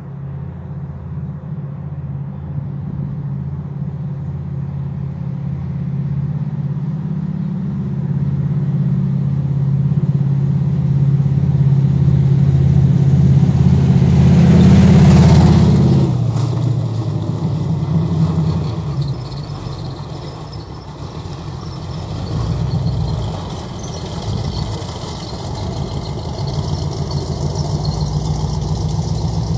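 A motor vehicle's engine running. It grows steadily louder for about fifteen seconds, then drops off sharply and carries on lower.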